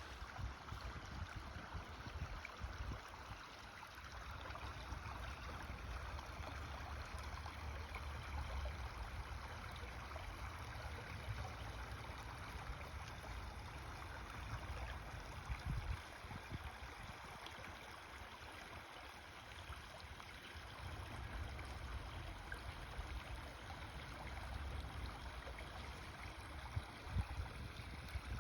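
Creek water flowing in a steady, even rush, with a low rumble underneath that swells and fades.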